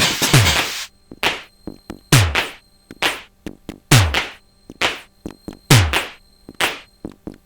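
Sonic Potions LXR-02 digital drum machine playing a techno pattern. About a second in, the dense noisy layer drops out, leaving sparse kick drums that fall in pitch, with short hat and percussion hits between them. The full pattern comes back in near the end.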